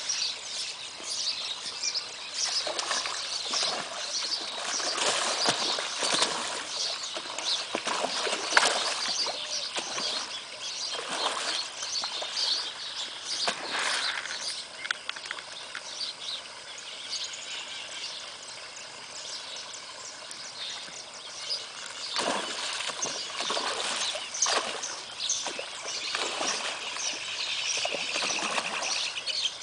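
Outdoor waterside ambience: birds chirping, with irregular splashing at the water's surface that comes and goes.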